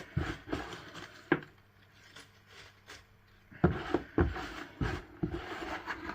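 Dry leaf litter rustling and crackling as it is handled and spread over enclosure substrate, with a few short knocks.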